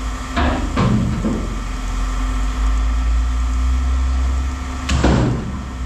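Pieces of scrap metal clattering as they are tossed into a bin: two impacts about half a second apart early on and a louder one about five seconds in. Under them a steady low engine hum runs on.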